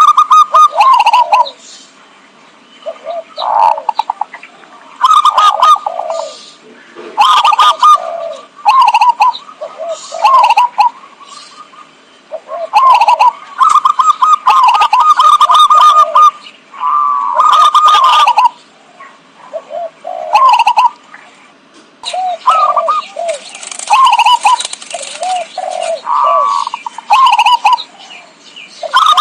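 Zebra doves (perkutut) cooing in loud clusters of quick, warbling coos, each cluster a second or two long, with short pauses between. This is a recorded lure call used to draw in wild perkutut for trapping.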